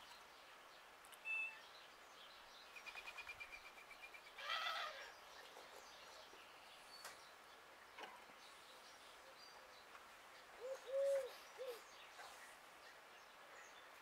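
Faint outdoor birdsong: a fast rattling trill about three seconds in, a short harsher call right after, and a low three-note cooing call near the end, with scattered chirps between.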